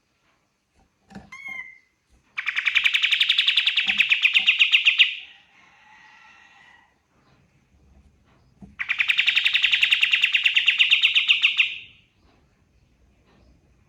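Kapas tembak songbird singing: a few short chirps, then two long, loud, rapid trills a few seconds apart, with soft twittering between them.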